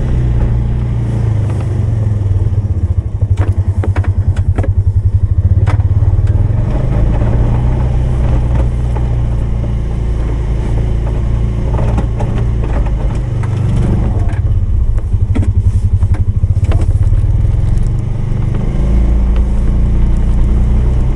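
Polaris 570's single-cylinder engine running steadily while plowing snow, pulsing in a couple of stretches. A few sharp clicks and clatter come over it a few seconds in and again past the middle.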